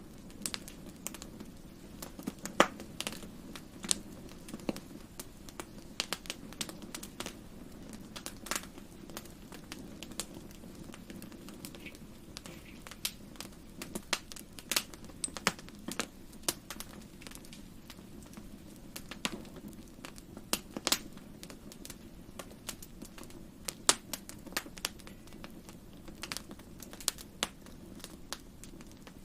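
Wood fire crackling in a fireplace: irregular sharp pops and snaps, a few each second, over a steady low rumble of burning.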